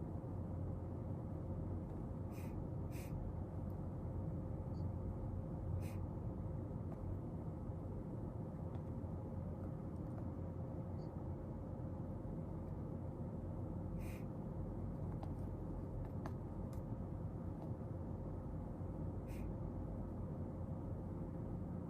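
Steady room hum with a faint constant tone, broken by a few short soft clicks and taps from work at a desk.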